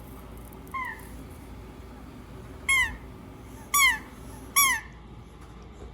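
A squeaky dog toy squeaked four times, each a short squeak that bends up and then down in pitch; the first is faint and the last three louder.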